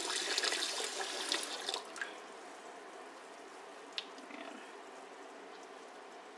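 Cold tap water running into a sink over boiled rice vermicelli being rinsed. It is loudest for the first two seconds, then drops to a faint trickle, with a single sharp click about four seconds in.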